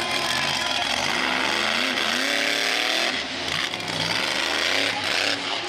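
Monster truck engine running loud and revving, its pitch climbing about two seconds in.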